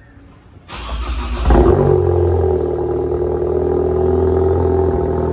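2013 Ford Focus ST's turbocharged 2.0-litre four-cylinder, breathing through a Cobb 3-inch exhaust and downpipe, starting up: it cranks briefly under a second in, fires with a loud flare, then settles into a steady idle.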